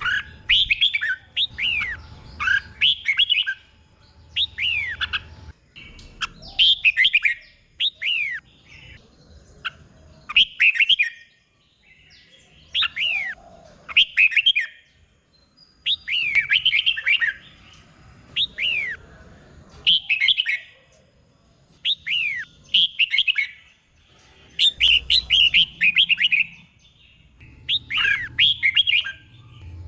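Red-whiskered bulbul singing: short, quick phrases of falling whistled notes, repeated every second or two with brief pauses, the phrases often doubled.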